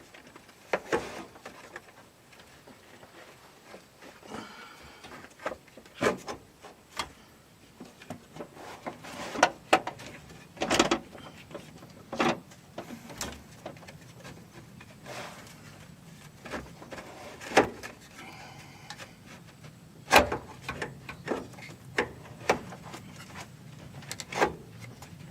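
Hand work on a Subaru Sambar's air-conditioner fan assembly: scattered knocks, clicks and rubbing of parts and tools being handled, one every second or two, with short quiet gaps between them.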